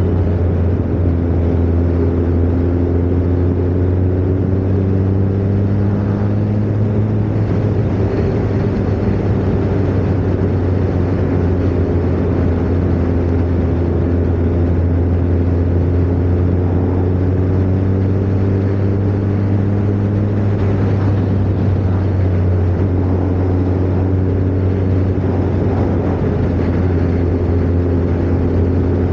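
Kawasaki ZZR1400's inline-four engine running steadily at a cruise, heard from on board the motorcycle, its pitch drifting gently up and down with small changes in speed.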